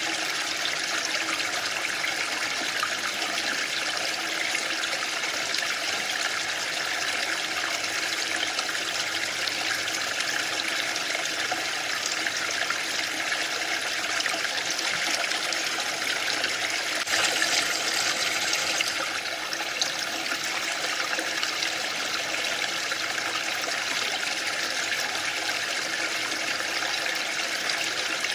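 Waterfall rushing steadily, a dense even hiss of falling water, briefly a little louder and brighter around two-thirds of the way through.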